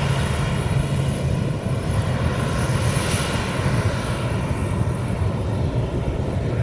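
Fixed-wing aircraft engines running loud and steady, with a steady high whine over a low hum. The sound sweeps through a peak about three seconds in.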